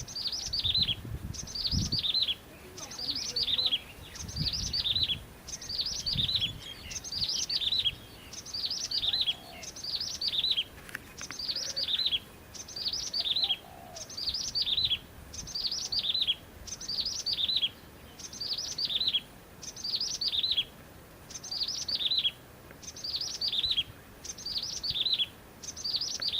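A small bird singing the same short phrase over and over, about one every second and a bit: a quick run of high notes falling in pitch.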